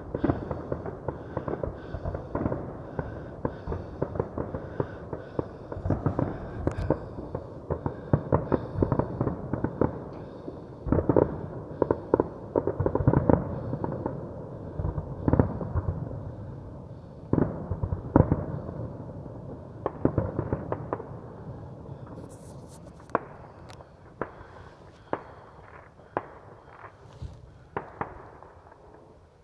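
Fireworks going off in a dense run of bangs and crackles over a continuous rumble. They thin out to scattered bangs over the last several seconds and fade.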